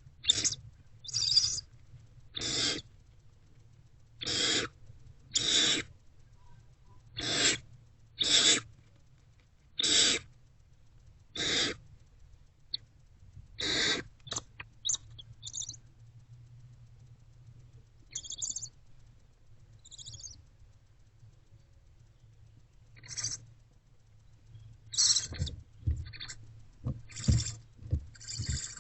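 Barn owlets giving their rasping, hissing begging calls, roughly one every second or so at first and then more sparsely. Short scratchy clicks and bumps of movement in the nest box come near the end.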